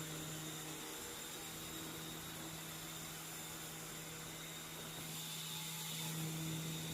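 Small toy RC helicopter's electric rotor motors running with a steady hum and whir, getting a little louder near the end.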